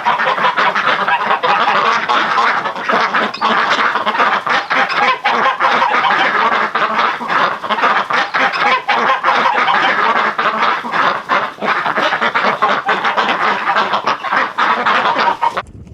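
A large flock of domestic ducks and geese honking and quacking all at once in a dense, continuous din that cuts off suddenly near the end.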